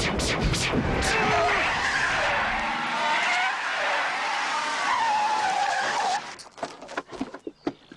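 Car tyres squealing in a long skid, a wavering screech over rumbling road and engine noise. It cuts off suddenly about six seconds in, followed by a few scattered knocks.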